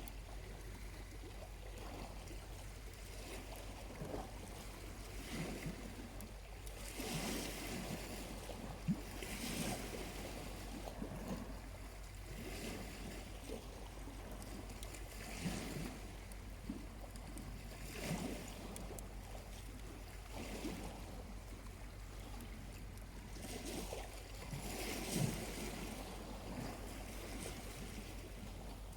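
Small waves breaking gently and washing up a calm beach every few seconds, with a steady low rumble underneath.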